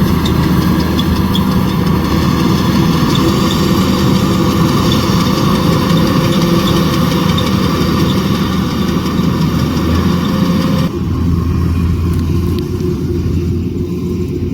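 Kubota DC105X rice combine harvester running steadily, its diesel engine together with the higher clatter and hiss of the harvesting machinery. About eleven seconds in, the higher sound cuts off abruptly, leaving mainly the lower engine note.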